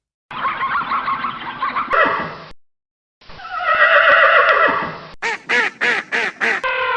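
Separate animal calls cut one after another with silent gaps between them: a first call, then a longer loud call falling in pitch, then a quick run of five short calls near the end.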